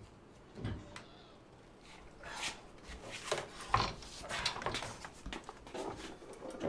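Knocks and scrapes of a Minn Kota Maxxum bow-mount trolling motor being swung and lowered onto its new T-H Marine Troll Tamer support, metal against metal. The strokes come irregularly, growing busier about halfway through.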